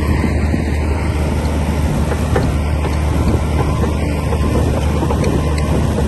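Komatsu D60P bulldozer's diesel engine running steadily with a deep low hum, with a few faint clicks from the machine scattered through it.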